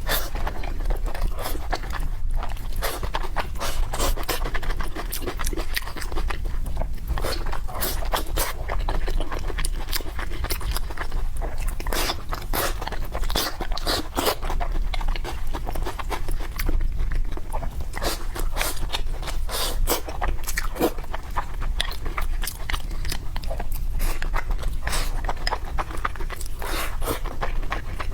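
A person eating noodles and fried food: steady chewing and crunching with many quick, crisp mouth clicks.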